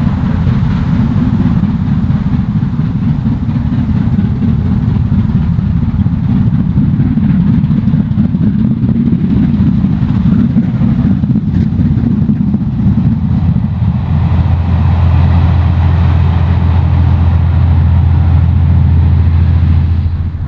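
Strong wind buffeting the microphone, a heavy low rumble. About two-thirds of the way through, a steady low engine hum joins in.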